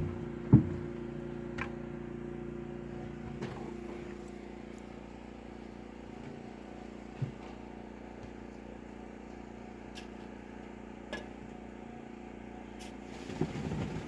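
An engine running steadily at an even speed, with scattered sharp knocks and clicks, the loudest about half a second in.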